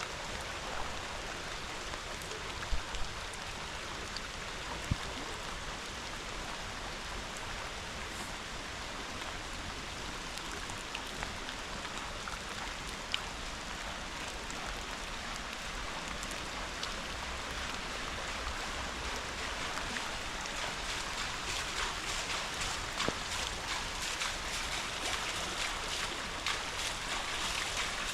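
Rain and rushing river water, a steady hiss and wash with scattered sharp drip ticks. It grows somewhat louder and choppier after about twenty seconds.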